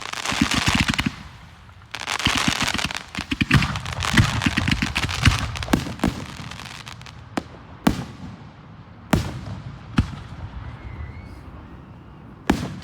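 Aerial display fireworks going off: dense runs of rapid crackling cracks for the first half, then about five separate sharp bangs a second or two apart, each fading out quickly.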